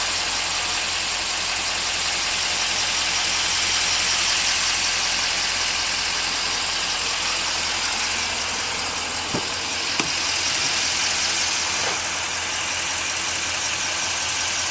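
Duramax 6.6 L V8 turbo diesel idling steadily, with a brief click about ten seconds in.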